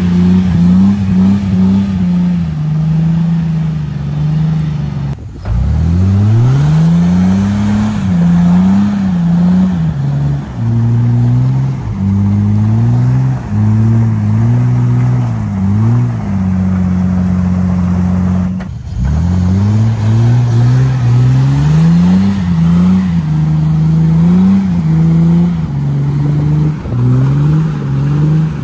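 Jeep Wrangler's engine revving hard under load on a steep climb, its pitch repeatedly rising and falling. The sound breaks off briefly twice, and each time the engine revs back up from low.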